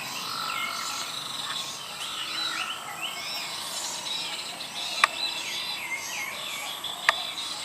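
Many small birds chirping and twittering in quick, overlapping whistled notes, with two sharp clicks about five and seven seconds in.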